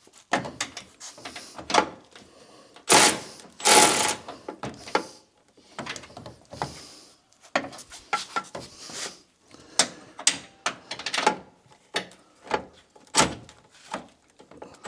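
Hand tools working on metal parts: irregular clinks, clicks and knocks, with two louder rustling scrapes about three and four seconds in.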